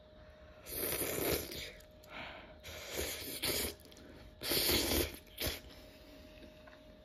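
Close-up chewing of a mouthful of food, in three loud bursts a second or so apart.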